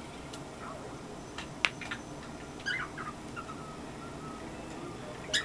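Cockatiel giving short, scattered chirps, a few near the middle and a louder cluster near the end, with one sharp click about a second and a half in.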